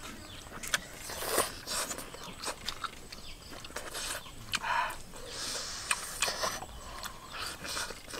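People biting and chewing pieces of meat with their mouths, giving irregular wet smacks and clicks.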